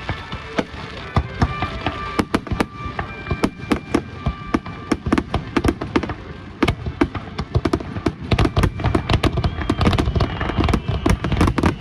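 Fireworks going off in rapid, crackling series of sharp cracks, growing denser and louder in the second half, over background music.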